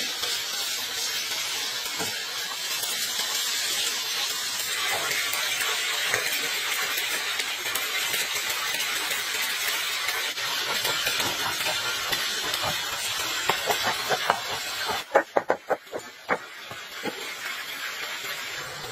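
Chicken pieces frying in hot oil, a steady sizzle. Past the middle comes a quick run of sharp knife strikes on a cutting board, chopping garlic, which are the loudest sounds.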